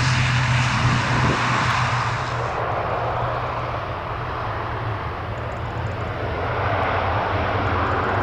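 Aircraft engines running, a steady drone with a low hum underneath; it eases slightly in the middle and swells again near the end.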